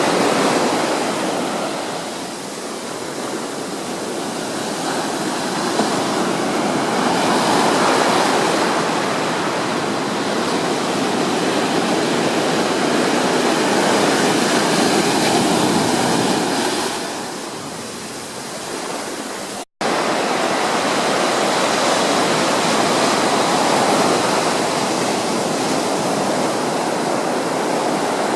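Ocean surf, waves breaking and washing up the beach in a steady rush that swells and eases several times. The sound cuts out for an instant about twenty seconds in.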